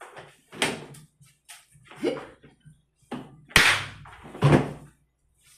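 Kitchen handling noises: a series of bumps and knocks, the sharpest and loudest about three and a half seconds in, like a cupboard or refrigerator door shutting.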